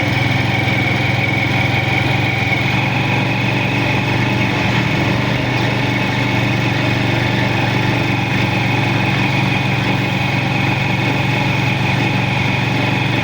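Small motorcycle-type engine running at a steady speed, a low, even drone, as heard riding in a motorized pedicab.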